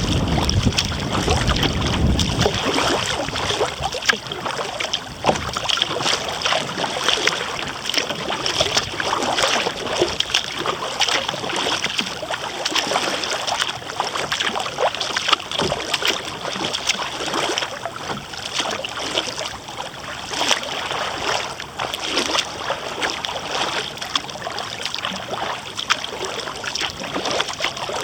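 Water splashing and lapping around a kayak as it is paddled, with many small irregular splashes. Wind buffets the microphone for the first couple of seconds.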